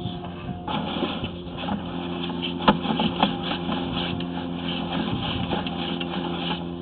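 Engine idling steadily, with scattered clicks and knocks over it.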